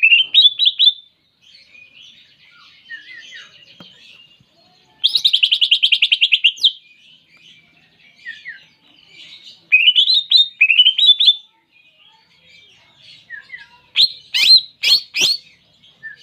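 A green leafbird (cucak ijo) singing: loud groups of quick rising notes, a fast rattling trill about five seconds in, and a run of sharp, clear 'tembakan' shot calls near the end, with soft twittering between the phrases.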